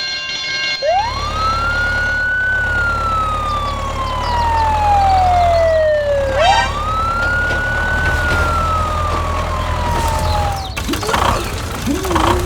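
Emergency-vehicle siren wailing through two slow cycles, each rising quickly and then falling slowly in pitch, over a steady low engine rumble.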